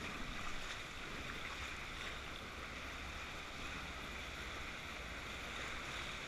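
Steady rushing of river water around a raft, an even wash of noise with no distinct splashes.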